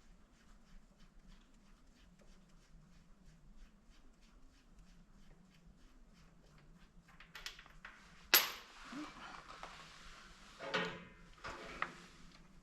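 Ratchet wrench clicking faintly and steadily, about four clicks a second, as a tractor bell housing bolt is backed out. About eight seconds in comes a loud metallic clank with ringing, and more clanks of steel follow near the end.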